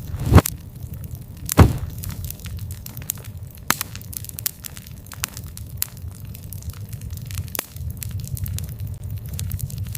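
Campfire crackling, with frequent sharp pops over a steady low rumble, and two loud pops in the first two seconds.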